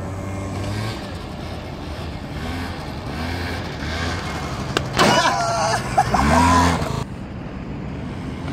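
Scooter engine running and being revved in swells, rising in pitch about six and a half seconds in, with a louder stretch of noise and higher squealing tones from about five to seven seconds in.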